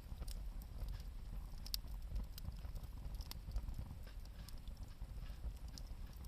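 Wood campfire crackling: irregular sharp pops and ticks, one louder snap near the two-second mark, over a steady low rumble.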